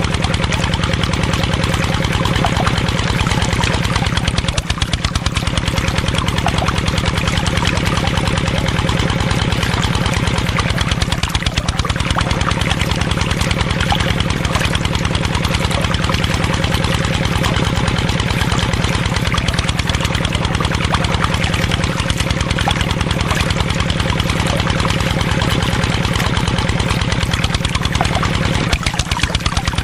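Small engine of a miniature DIY tractor running steadily with a fast, even pulse, easing off briefly a few times.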